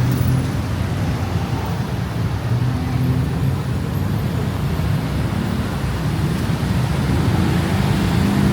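Steady city road traffic: passing car engines with a low hum and tyre noise, a little louder near the end.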